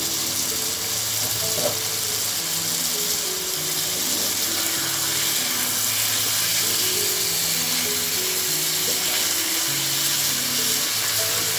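Thick mrigal fish and vegetable curry sizzling steadily in a pan as it is stirred with a spatula, in the final stage of cooking it down in oil before water is added. Soft background music of short, stepping notes plays underneath.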